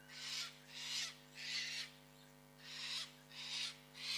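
An animal's harsh, hissing screech calls, each under half a second, given in two quick runs of three.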